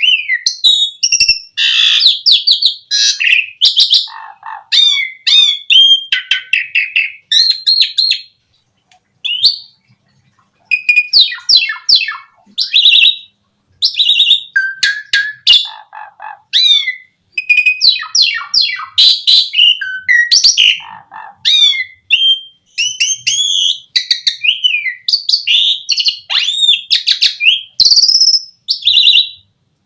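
Asian pied starling (jalak suren) singing a loud, varied song of whistles, chirps and rapid trills packed with mimicked phrases, with a brief pause about nine seconds in.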